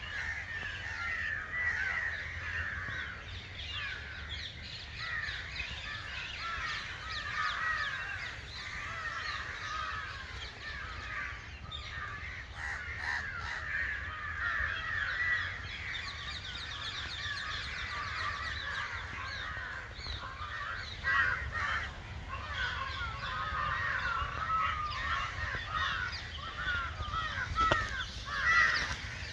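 A dense chorus of many birds calling at once: a steady chatter of overlapping short, sliding calls, with a few louder calls standing out near the end.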